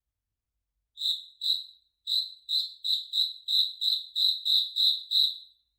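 A cricket chirping in short, high pulses: silence for about a second, two spaced chirps, then a steady run of about a dozen chirps at roughly three a second, which stops shortly before the end.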